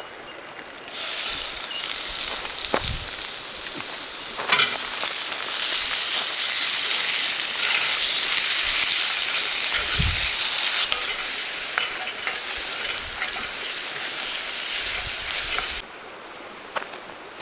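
Food sizzling and frying in a hot pan over a campfire. The sizzle starts abruptly about a second in, grows louder a few seconds later, and cuts off suddenly near the end.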